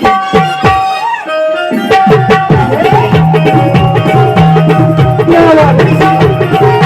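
Naman folk music: a hand drum played in a quick rhythm under steady held melodic notes. The playing thins out about a second in, then returns fuller with deep drum strokes.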